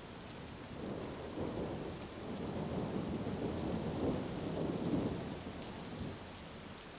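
Heavy rain falling steadily, with a long roll of thunder that builds about a second in, rumbles loudest about four to five seconds in, and dies away near the end.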